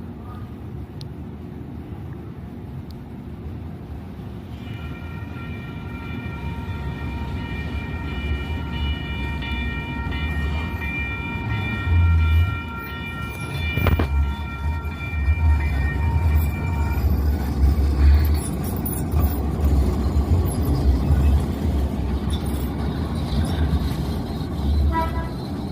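Sacramento RT light rail train passing with a low rumble that grows louder, while its horn sounds one long steady chord for about twelve seconds, starting about five seconds in.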